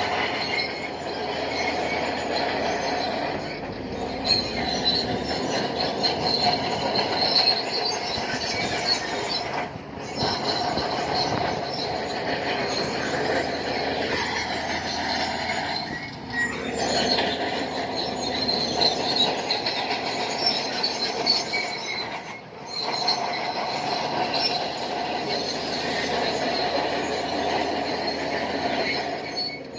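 Shantui crawler bulldozer working, its steel tracks squealing steadily over the engine's running, with a squeal that dips in pitch and comes back about halfway through.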